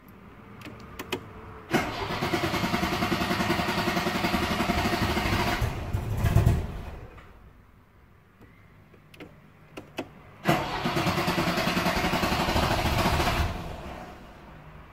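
A car engine cranked on its starter twice, each time a fast, even churning lasting about four to five seconds, and each preceded by a few clicks. The first attempt ends in a brief loud low burst before dying away. The second fades out after about three seconds.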